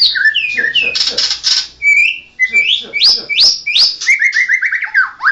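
White-rumped shama (murai batu) singing loudly in rapid, varied phrases: slurred whistles and upward-sweeping notes, a few harsh rasping notes about a second in, and a fast run of repeated notes near the end.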